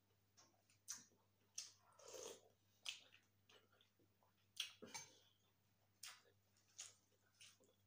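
Quiet close-miked eating sounds: chewing with wet lip smacks and short sharp mouth clicks at irregular intervals, with a longer smack about two seconds in.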